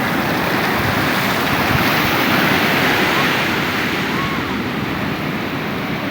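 Sea surf breaking and washing up the shore: a continuous rush of water that swells a little about two seconds in.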